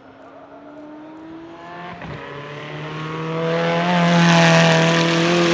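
Zenvo TSR-S's 5.8-litre twin-supercharged V8 under power, its engine note slowly rising in pitch and growing steadily louder as the car comes on, loudest about four seconds in as it goes by close.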